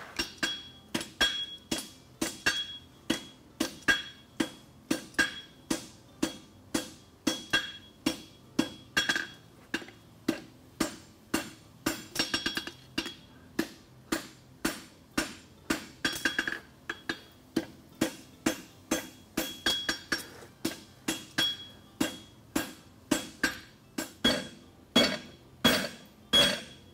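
Hand hammer striking hot steel on an anvil in a steady rhythm of about two blows a second, each blow with a bright ring, a little faster around the middle and near the end. The farrier is upsetting the end of the horseshoe's lateral branch to build up material for a heel caulk.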